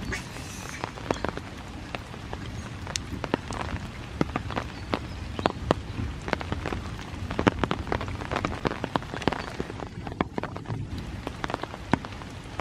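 Rain falling steadily, with many large drops striking nearby surfaces as irregular sharp ticks.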